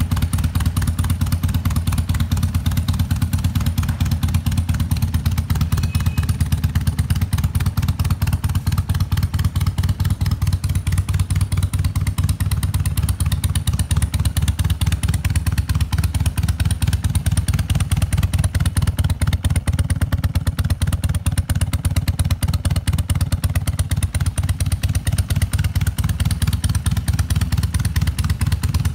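BMW R100 RS motorcycle's air-cooled boxer twin engine running steadily at an even, low, pulsing beat, with no revving.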